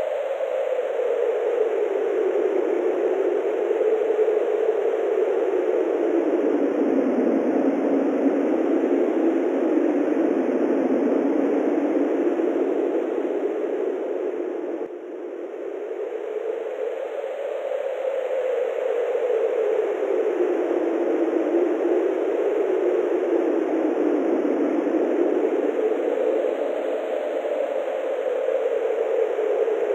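Steady rushing wind whose pitch slowly sinks and rises again twice, with a brief dip in level about halfway through.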